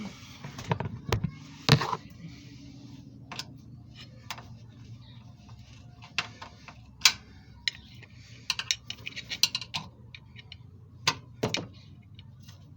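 Hand tools and metal parts clinking and knocking while an engine mount is being fitted and lined up, as irregular sharp clicks and knocks with a low steady hum underneath.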